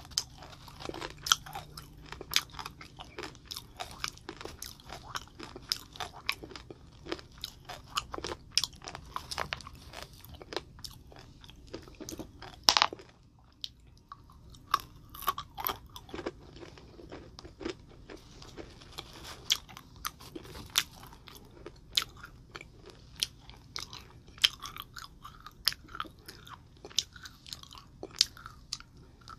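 Close-miked chewing of sugar-coated green chick marshmallows: a steady run of short crisp crunches and clicks, with one louder snap about 13 seconds in.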